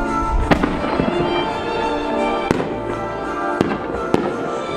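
Fireworks shells bursting with four sharp bangs, spaced one to two seconds apart, over music with long sustained notes.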